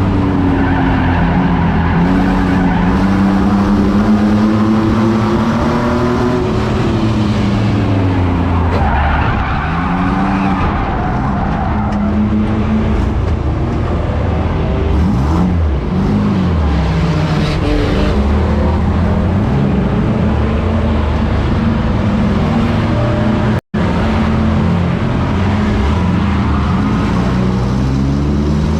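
Several racing trucks' engines running hard on a track, their pitches rising and falling and overlapping as they accelerate, lift and pass, with tyre noise. The recording cuts out completely for a split second near the end.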